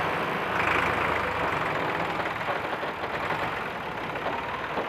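Massey Ferguson tractor engine idling steadily, with a brief louder patch of noise about a second in.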